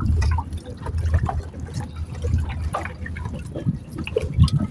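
Water splashing and trickling in irregular small bursts.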